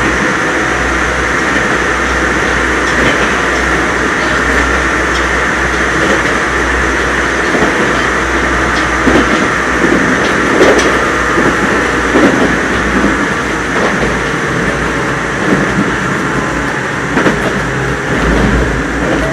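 Nagoya Municipal Subway 3000 series chopper-controlled electric train running at speed, heard from inside the carriage: a steady rumble of wheels on rail, with a few louder knocks and clatters in the middle and near the end.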